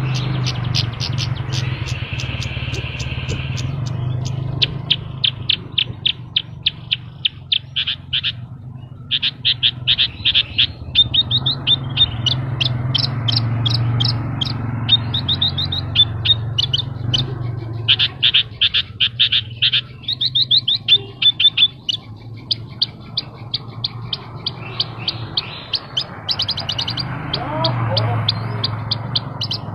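Javan bushlark (branjangan) singing hard, in long runs of rapid high chirps, many notes a second, broken by short pauses. A steady low hum runs underneath.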